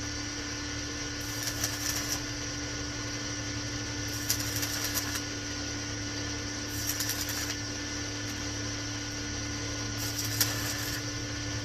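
Stick (MMA) welding arc from an INGCO 220 A inverter welder: a steady crackling sizzle over a low hum, with sharper crackling flaring up every two to three seconds.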